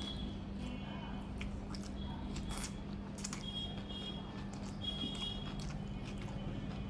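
Close-up mouth sounds of a person eating: chewing, with quick wet smacks and clicks. A few short high chirps sound faintly behind them, over a steady low hum.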